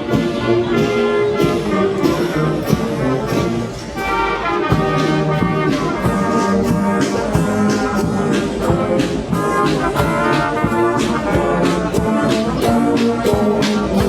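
Brass marching band playing a tune, with trumpets and trombones over a steady drum beat.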